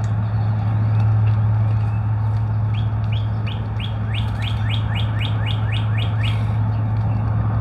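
A bird singing a quick series of short whistled notes, each falling in pitch, about four a second for a few seconds, over a steady low hum.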